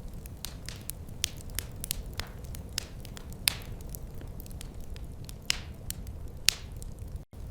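Wood fire crackling in a fireplace: irregular sharp pops and snaps over a steady low rumble of the flames, a few pops much louder than the rest. The sound drops out for a moment near the end.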